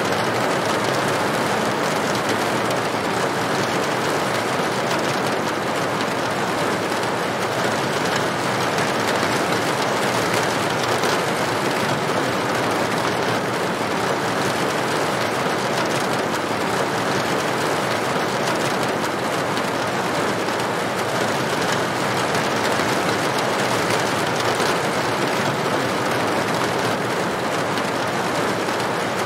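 Steady rain falling on a tin roof, a dense, even patter with no let-up.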